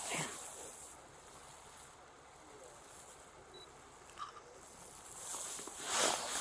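Footsteps crunching on snow, irregular, with a quieter pause in the middle and picking up again near the end.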